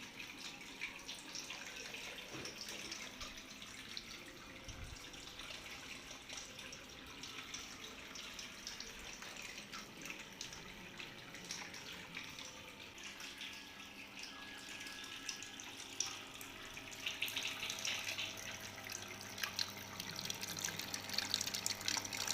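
Faint, steady trickling and splashing of water running through a small cement fountain, fed by a submersible pump.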